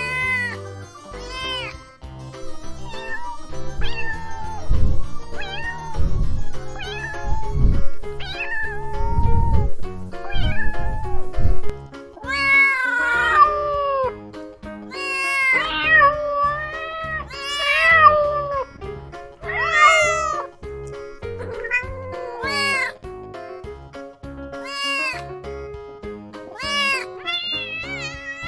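Kittens meowing over and over, each call rising and then falling in pitch; the calls are faint for the first several seconds, then loud and frequent from about halfway through. Background music plays underneath.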